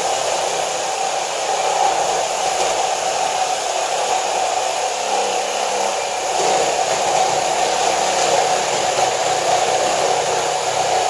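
Battery-powered saw running steadily, its blade cutting through metal stock in one long continuous cut.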